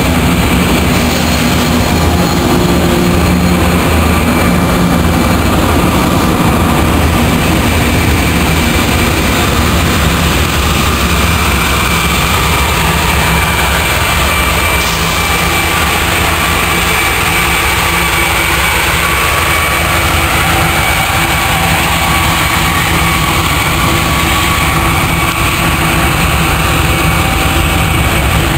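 BNSF double-stack intermodal freight train rolling past close by: a steady, loud rumble of wheels on rail with a low diesel engine hum and a thin steady whine above it. A BNSF diesel locomotive placed in the train passes about halfway through.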